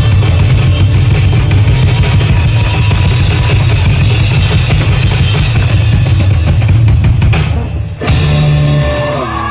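Live rock band with drum kit and bass playing loud and full. About seven and a half seconds in it drops out briefly, then comes back with a hit and held notes that ring and fade, the song's closing chord.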